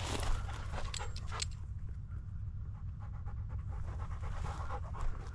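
Labrador retriever panting, with a few sharp clicks in the first second and a half.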